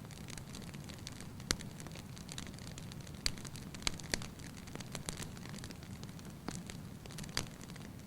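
Wood fire burning in a fireplace: a steady low rustle of flames with sharp crackling pops at irregular intervals, about eight of them, the sharpest about a second and a half in.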